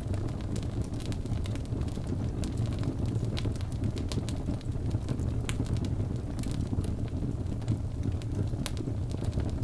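Wood fire crackling in a fireplace: a steady low rush of flame under frequent, irregular sharp snaps and pops.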